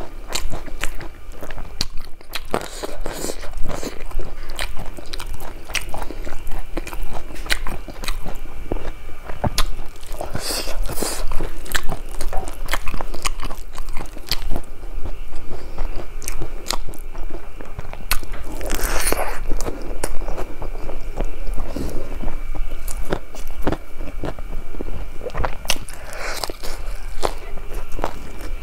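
Close-miked eating sounds: chewing and crunching with frequent wet mouth clicks, and a few longer rustling smacks.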